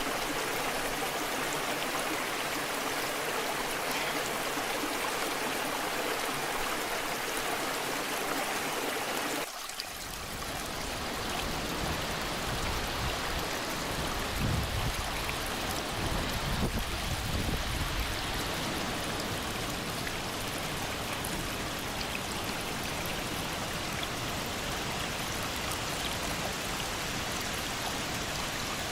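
Waterfall water rushing in a steady hiss. About ten seconds in it changes abruptly to a deeper, fuller rush with more low rumble.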